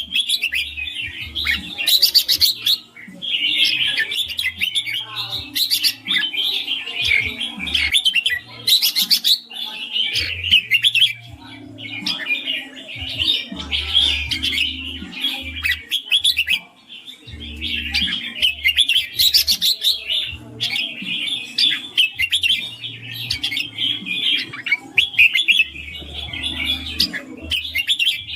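Red-whiskered bulbul singing: a rapid, almost continuous stream of clear chirping phrases, with only brief pauses.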